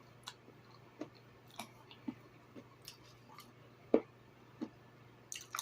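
Close-up eating sounds: scattered wet clicks and smacks of chewing food, with one sharper, louder click about four seconds in, over a faint low hum.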